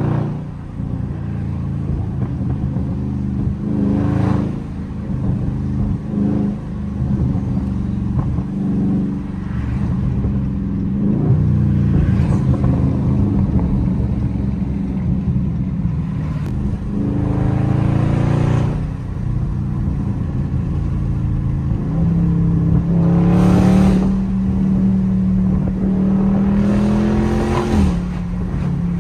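Dodge Scat Pack's 392 HEMI V8 with the mid muffler deleted, running under way: a steady low drone broken by several stretches of acceleration where the engine pitch climbs, the longest in the last third, then drops suddenly near the end.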